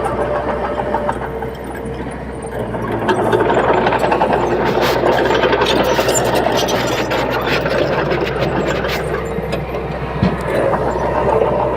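Bulldozer's diesel engine running steadily, with a busier stretch of rattling and clanking from about three to nine seconds in.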